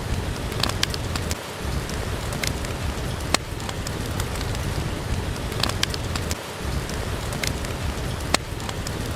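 Steady rain with a crackling wood fire: an even hiss of rain, broken by a handful of sharp pops and crackles scattered a second or two apart.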